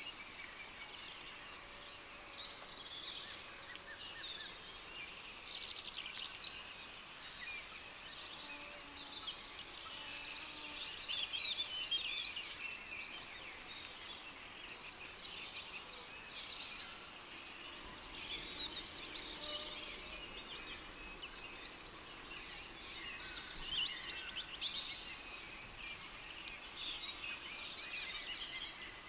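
A cricket chirps steadily in quick, evenly spaced high pulses, pausing briefly about five seconds in. Birds call here and there beneath it in a tropical rainforest ambience.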